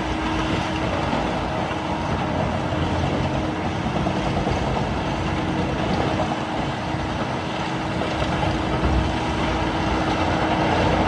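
Heavy diesel machinery running steadily, a constant whine held over the engine noise.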